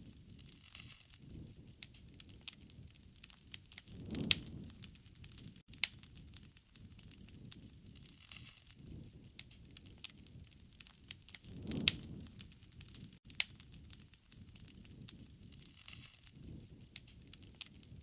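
Wood fire crackling, with frequent sharp pops and snaps over a soft low rush of flame that swells twice.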